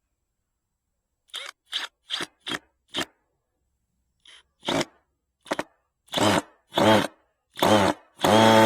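Power drill driving a screw into wood in short trigger bursts, at first about two or three a second, then longer whirring pulls near the end, the last the loudest. The screw is resisting and won't go in.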